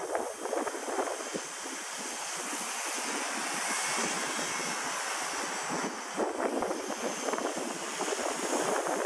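Walkera V120D02 mini RC helicopter flying, its motor and rotor giving a steady high-pitched whine, with gusts of wind buffeting the microphone.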